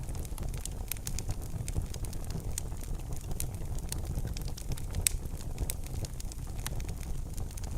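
Wood fire crackling in a fireplace: many sharp pops and snaps over a low, steady rumble of the flames, with one louder pop about five seconds in.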